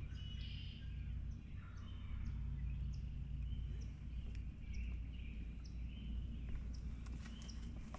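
Songbirds chirping and calling in the woods, with short high notes repeating every half second or so, over a steady low rumble.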